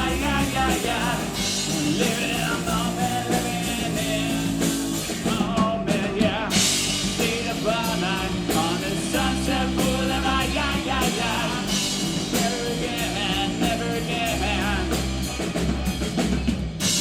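A rock band playing live: drum kit, bass and electric guitar, with a melodic lead line over a steady beat.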